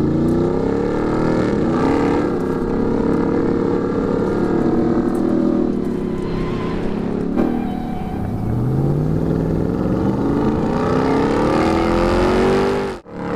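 Ram 1500 TRX's supercharged 6.2-litre V8 running and revving, its pitch climbing several times over the stretch. The sound drops out abruptly for a moment near the end.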